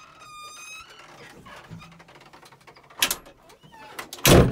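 A high squeak lasting under a second, then two knocks, the second louder and heavier near the end. These are fittings being handled and bumped inside a bulldozer cab.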